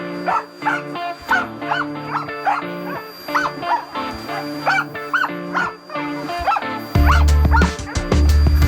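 A corgi barking over and over, about two barks a second, at a vacuum cleaner. Background music plays underneath, and its bass gets much louder near the end.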